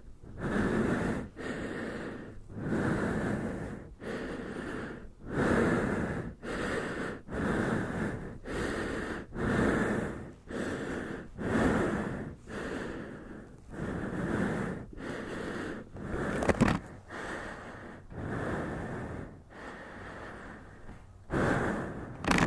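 A man breathing hard and heavily close to the microphone, about one breath a second, winded from pushing a heavy motorcycle.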